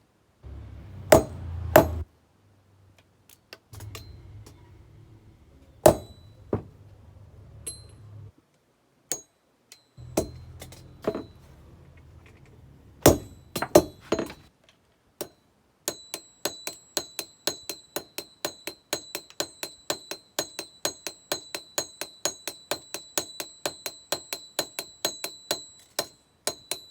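Blacksmith's hammer striking hot metal on an anvil at the finishing stage. Scattered heavy blows come first over a low steady hum that comes and goes. Past the middle they give way to a steady run of lighter ringing strikes, about three a second.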